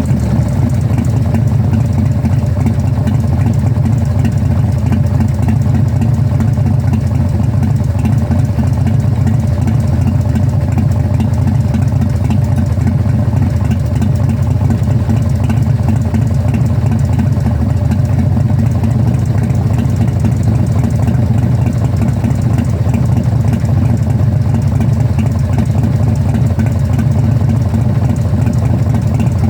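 Engine idling steadily, an even run of firing pulses with no revving.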